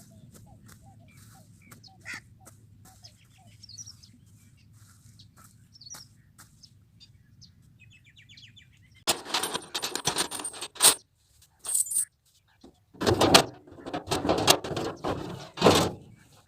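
Small birds chirping faintly over a low steady hum. About halfway through, loud irregular bursts of rushing noise break in, starting and stopping abruptly.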